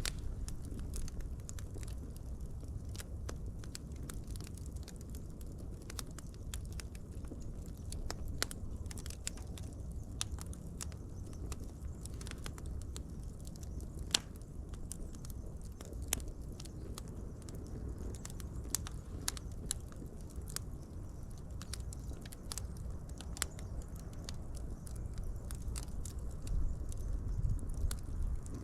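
Wood fire burning with a steady low rumble and irregular sharp crackles and pops, one louder pop about halfway through.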